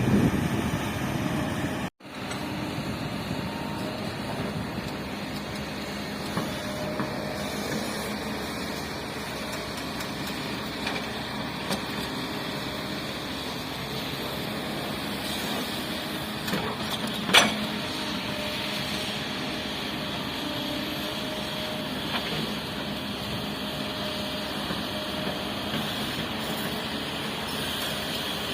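Heavy construction machinery engines running steadily. The sound is louder for the first two seconds, then cuts off abruptly, and a single sharp knock comes about 17 seconds in.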